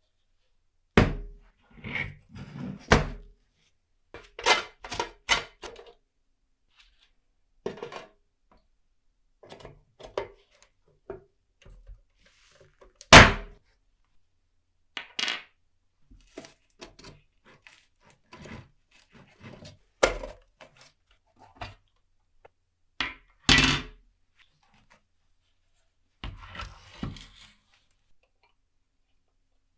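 Irregular knocks and clicks of small hard objects being handled on a hard surface, the loudest a single sharp knock about 13 seconds in, with a short rattle near the end.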